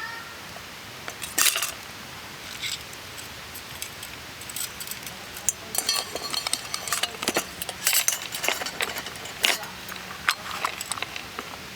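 Irregular light metallic clinking and rattling of small hard objects being handled, in clusters that grow busier about halfway through.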